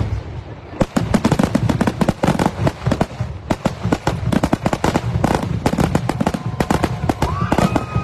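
Aerial fireworks going off in a rapid, dense barrage of bangs and crackles, many reports a second, with a brief lull about a second in. Near the end, a whistle rises and holds steady over the barrage.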